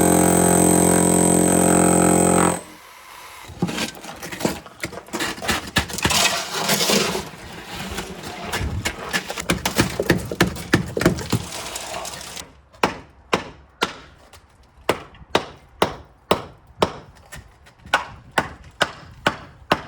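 A loud steady droning tone cuts off about two and a half seconds in. Then wet concrete is shovelled and scraped into a form, and from about halfway a stick tamps it down in sharp knocks, about two a second.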